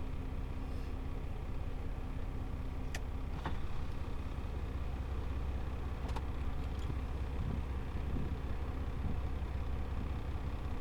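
Kenworth semi truck's Paccar MX13 diesel engine running with a steady low drone. A few faint clicks come about three and six seconds in.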